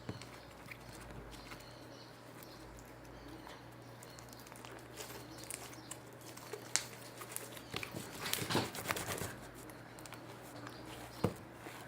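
Slime being handled and pressed by hand: scattered small wet clicks and crackles, with a denser run of them about two-thirds through and a sharper knock near the end, over a low steady hum.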